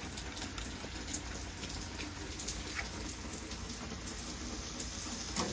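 Steady rain with many scattered sharp drop ticks, and one slightly louder pop near the end.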